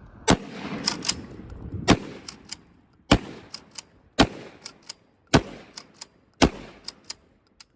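A shotgun loaded with #9 birdshot fired six times, about a second apart. Each shot is followed by two quick clacks as the action is cycled.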